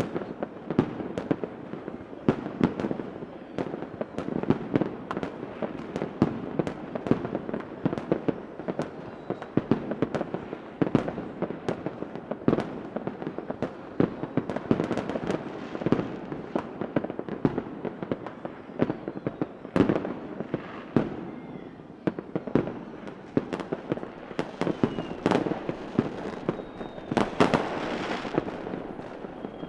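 Fireworks going off continuously: a dense run of sharp bangs and pops over steady crackling, with a few faint whistling glides in the second half.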